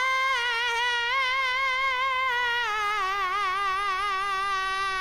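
A single high voice singing one long held note with vibrato, which grows wider and slides lower in pitch about halfway through.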